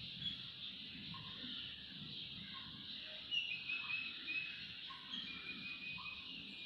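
Faint animal calls: short notes repeating about once a second over a steady high hiss.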